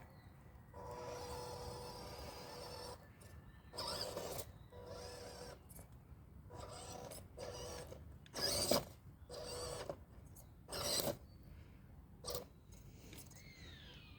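Small RC crawler's electric motor whining in short stop-start spells as it is throttled on and off, with short sharp knocks or scrapes in between, the two loudest about nine and eleven seconds in.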